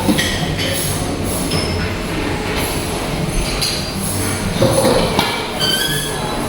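Busy buffet restaurant ambience: a steady din with dishes and cutlery clinking now and then.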